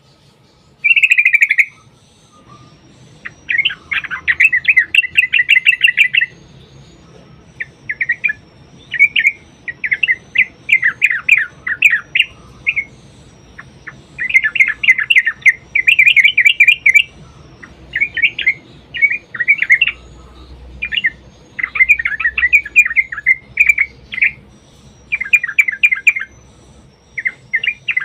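Yellow-vented bulbul (trucukan) singing: loud bursts of rapid, chattering notes, phrase after phrase with short pauses between them.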